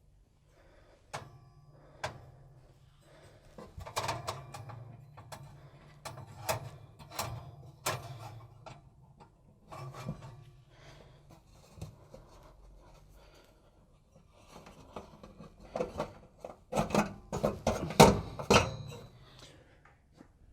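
Scattered clicks, knocks and rubbing as the electrical connectors are pushed onto the terminals of a new fan oven element. A louder cluster of clattering knocks comes near the end.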